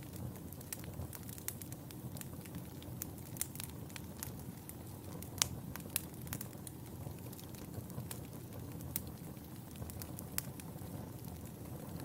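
Fire in a fireplace crackling: a steady low rumble of burning with scattered sharp pops, two louder pops about halfway through, half a second apart.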